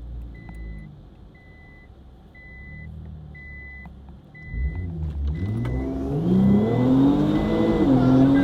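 A car's warning chime beeps about once a second over a low idle. About four and a half seconds in, the stage 2-tuned engine is launched hard and gets loud, climbing in pitch through the gears with drops at each shift, heard from inside the car.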